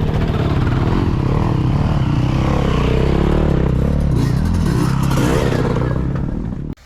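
Motorcycle engines running and revving, their pitch rising and falling; the sound cuts off suddenly near the end.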